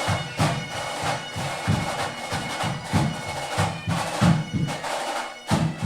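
Police pipe band playing: bagpipes sound a tune over their steady drones, with drum beats about three times a second.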